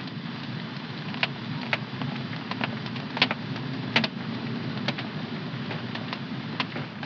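Wood fire crackling in a home fireplace: a steady low rumble of flame with irregular sharp pops, the loudest two about three and four seconds in.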